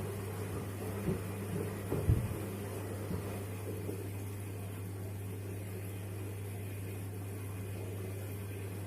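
Washing machine running with shoes in the drum: a steady low hum, with a few dull low thumps in the first three seconds as the shoes knock inside the drum.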